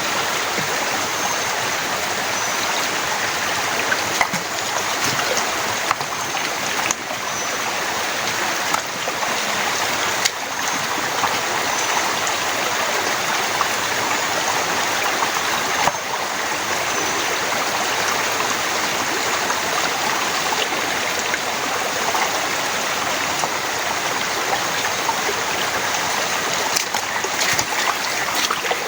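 Heavy rain falling steadily, a dense even hiss of water with a few sharper taps of drops.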